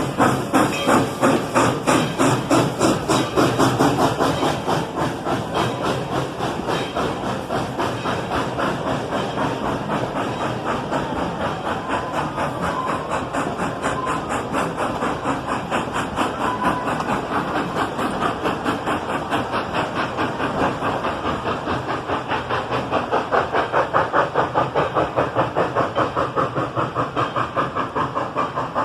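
Steam locomotive working under load, ET&WNC No. 12's exhaust beats chuffing steadily several times a second over a hiss of steam. The beats grow louder again after about twenty seconds.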